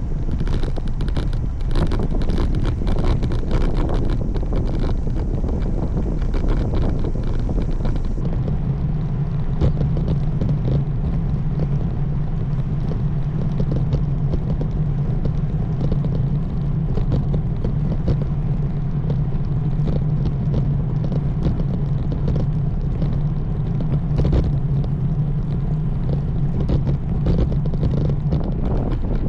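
Wind buffeting the microphone of a moving road bike, with steady rumbling road noise. About eight seconds in, a steady low hum joins it and continues almost to the end.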